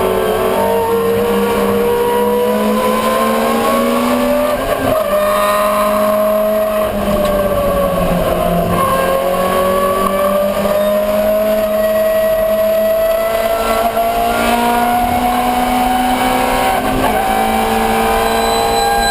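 Ford Escort 1300GT's four-cylinder engine at racing speed: revs climb, a short break and a gear change come about five seconds in, revs fall for a couple of seconds, then climb steadily again under full throttle.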